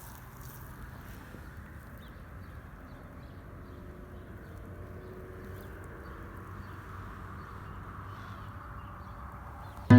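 Quiet outdoor ambience: a steady faint hiss with faint, scattered bird calls.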